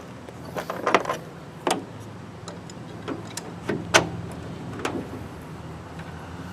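Irregular metallic clicks and knocks of hand-fitting bolt hardware (clamp, washers and nut) on a light mount, about eight or nine sharp taps spread unevenly, over a steady low hum.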